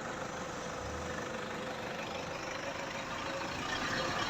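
A motor vehicle's engine running steadily, with a faint steady whine, swelling slightly near the end.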